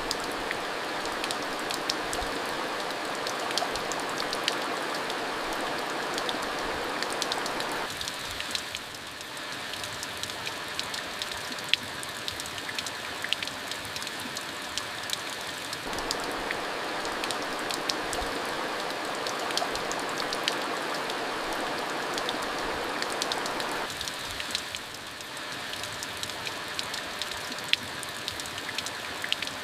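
Steady rain falling: an even hiss of rain with many sharp individual drop ticks. The hiss softens briefly twice.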